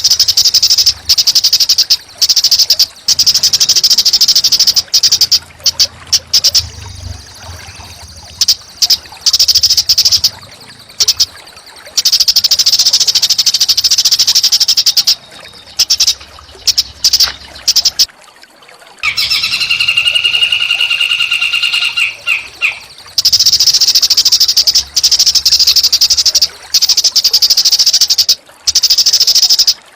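Small songbird singing rapid, harsh buzzing trills in long bursts with short breaks between them: rough 'kasar' song used as masteran to train cage birds. About two-thirds of the way through, a different, steadier call on two pitches runs for a few seconds.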